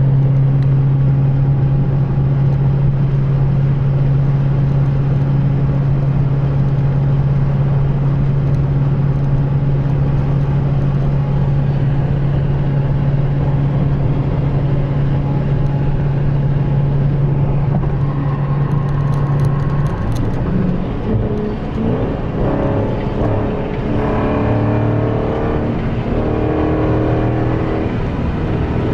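Dodge Charger Scat Pack's 6.4-litre (392) HEMI V8 cruising with a steady low drone. About twenty seconds in, the steady note breaks up and the engine's pitch shifts up and down as the revs change.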